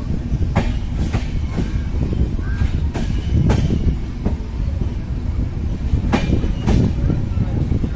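Indian Railways passenger coach running slowly, heard from its open doorway: a steady low rumble with the wheels clicking over rail joints, several clicks coming in quick pairs about half a second apart.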